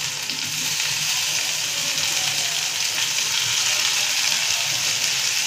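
Freshly chopped tomatoes sizzling in hot oil in a steel kadhai, along with fried onions and green chillies: a steady frying hiss.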